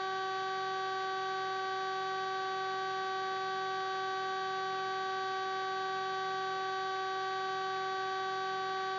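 Steady electrical hum on a police helicopter's intercom and radio audio feed: one unchanging tone with several even overtones.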